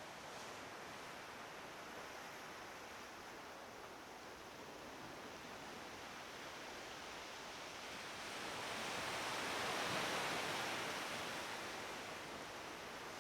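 Waves washing on the shore of the Kakhovka Reservoir: a steady rushing that swells for a few seconds from about eight seconds in.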